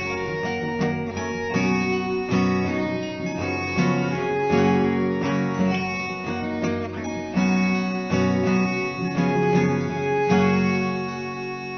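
Acoustic guitar playing the instrumental closing bars of a song, strummed and plucked chords that ease off and ring out near the end.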